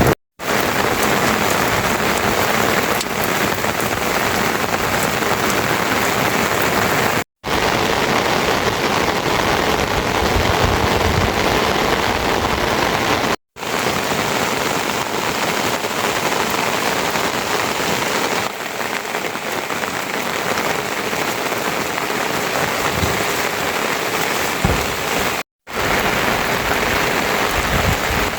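Heavy rain falling in a steady hiss, cut off for an instant four times.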